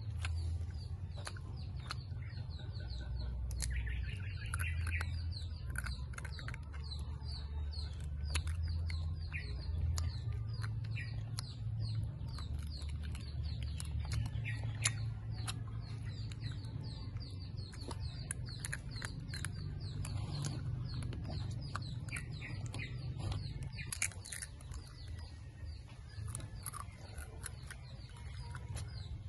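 Birds chirping over and over in quick short calls, with scattered soft mouth clicks and smacks of someone slowly chewing dried banana. A low steady rumble underneath, the loudest part, drops away about 24 seconds in.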